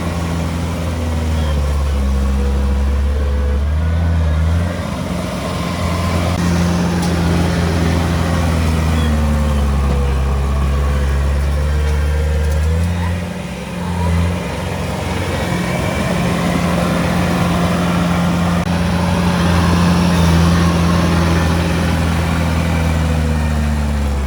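Komatsu D31P bulldozer's diesel engine running hard while pushing stone, a steady low drone whose pitch shifts several times as the revs change, with a brief dip about halfway through.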